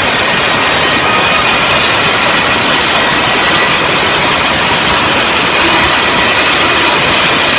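Workshop machinery running: a loud, steady rush that does not change.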